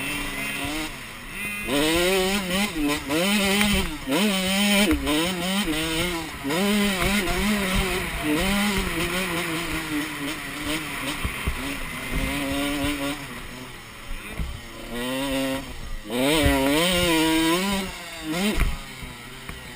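Dirt bike engine revving up and down over and over as it rides through a motocross track, with a dip to lower revs around the middle and a sharp burst of revving near the end.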